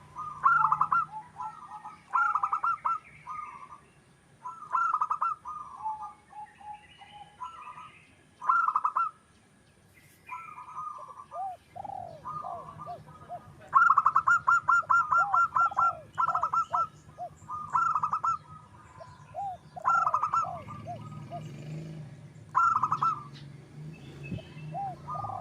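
Zebra dove (perkutut) cooing: short bursts of rapid staccato coos every second or two, with a longer fast run about fourteen seconds in.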